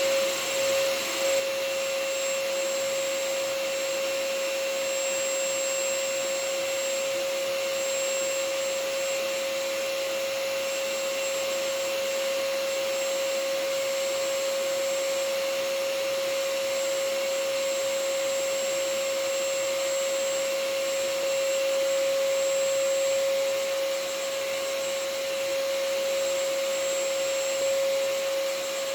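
Vacuum cleaner running steadily: a constant motor whine over a rush of air, with a slight pulsing in level during the first second or so.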